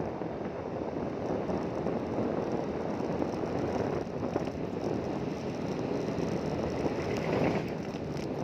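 A vehicle engine running steadily under way, with rushing wind and road or water noise and no change in pace.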